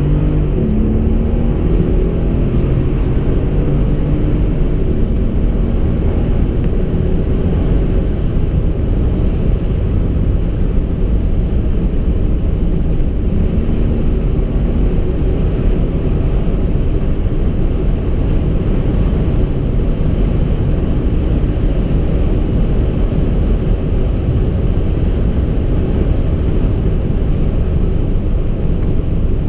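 Mercedes CLS 500's twin-turbo V8 (M278) driving at speed, heard from inside the car: a loud, steady rumble of engine, tyres and wind, with the engine note rising near the start and again about halfway through.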